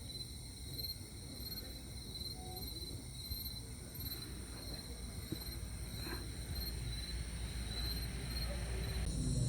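Insects chirping: a steady high whine with a pulsing chirp repeating a little under twice a second. A low rumble builds in the background in the second half.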